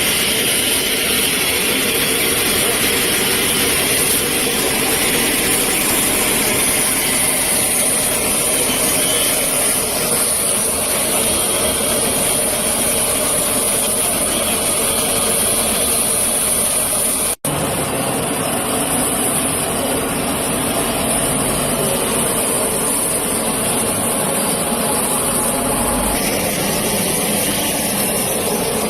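Loud, steady engine noise with a strong high hiss, broken by a split-second dropout partway through before it carries on.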